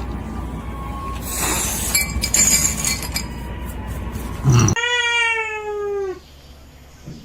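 A cat gives one long meow, falling slightly in pitch, about five seconds in. Before it comes a few seconds of noisy clatter with some clinks.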